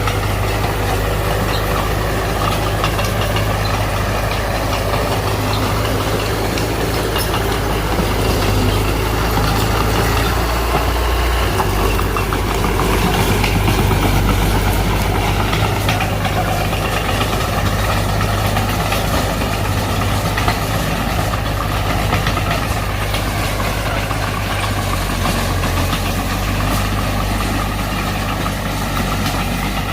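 Mitsubishi BD2F bulldozer's diesel engine running steadily, its pitch dipping and recovering a little about halfway through.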